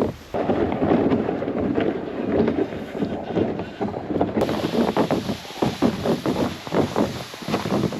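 Wind buffeting the microphone: a loud, gusting rumble with no steady tone, changing abruptly about four and a half seconds in.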